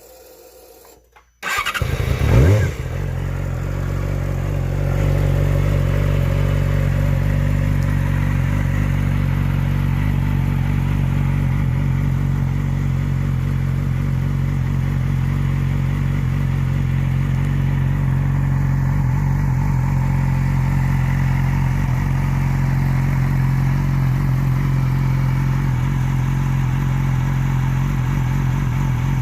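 2006 Yamaha YZF-R6 inline-four engine through a TOCE dual-bore slip-on exhaust starting up about a second and a half in, with a brief blip of revs, then settling into a steady idle that gets slightly louder a few seconds later.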